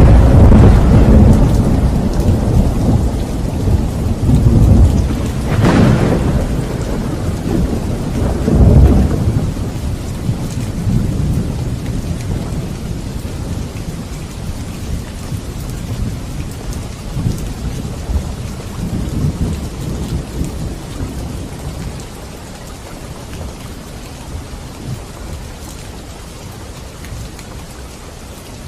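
Steady rain with a long roll of thunder: deep rumbles that swell twice in the first ten seconds, then die away slowly, leaving the rain alone.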